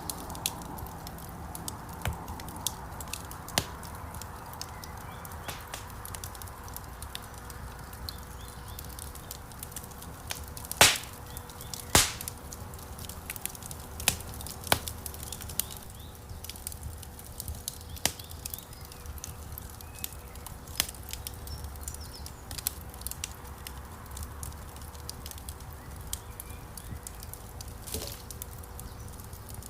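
Wood fire crackling in a fireplace: a low steady rumble of flames with frequent small snaps and two loud pops about eleven and twelve seconds in.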